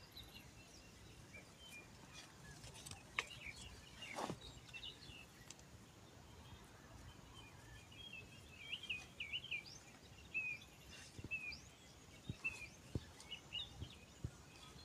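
Small birds chirping and twittering in quick high calls, busiest in the second half, over a faint outdoor background. A few soft knocks and rustles, one stronger about four seconds in.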